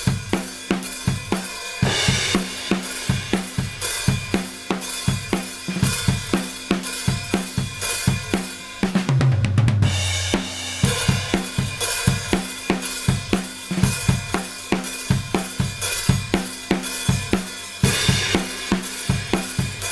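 Acoustic drum kit playing a steady groove of kick, snare, hi-hat and cymbals, heavily compressed by a FET compressor while its sidechain detector filters are being tried. Cymbal crashes ring out about two seconds in and near the end, and a low tom fill comes about nine seconds in.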